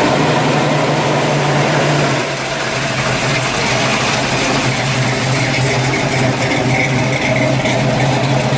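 Pro street 1970 Chevrolet Camaro's engine running at low speed as the car rolls slowly by, a steady low-pitched note with a slight dip about two seconds in.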